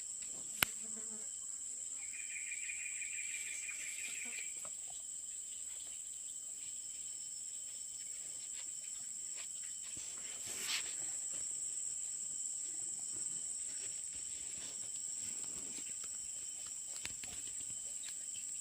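Insects chirping in a steady high-pitched drone, with a second, lower rapid trill from about two to four and a half seconds in. A single sharp click comes just after the start.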